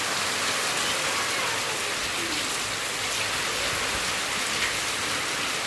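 Steady rain falling and pattering on surfaces, an even hiss without a break.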